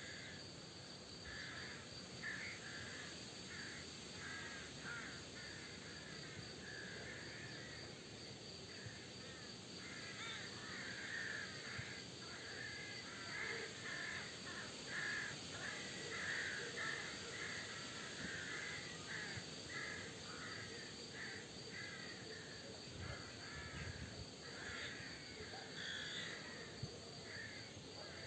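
Crows cawing over and over, several calls overlapping in a busy chorus that thickens in the middle, over a faint steady high-pitched background hum.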